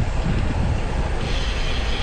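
Wind buffeting the microphone while riding a road bike, over steady rolling road noise; about a second in, a brighter hiss joins in.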